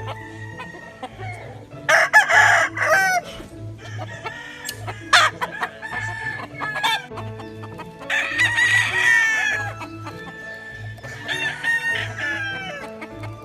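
Gamefowl roosters crowing, several long crows one after another, with clucking between them, over background music with a steady beat.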